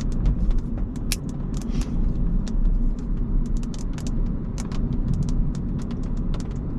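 Inside a moving Audi S5: a steady low rumble of road and engine, with scattered sharp taps of the first raindrops hitting the car.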